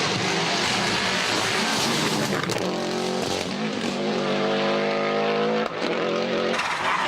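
Subaru Impreza GC8 rally car's flat-four boxer engine running hard. Its revs hold steady for a couple of seconds, then drop off sharply about two-thirds of the way through.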